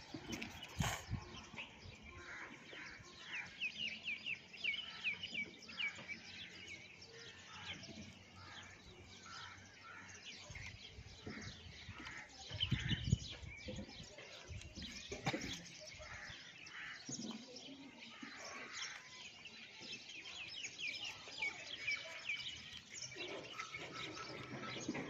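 Small birds chirping and trilling in quick runs throughout, with a brief low rumble about halfway through.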